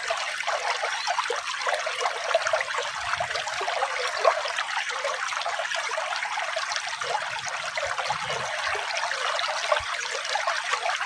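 Running water trickling and splashing steadily, a continuous bright patter with no break.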